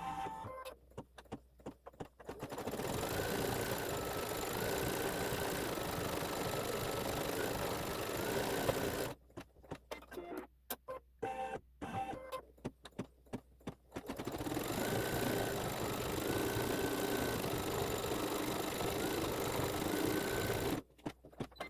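Embroidery machine stitching out a design in two long steady runs, its motors giving a whine that steps up and down in pitch. Before, between and after the runs it works in short stop-start spells.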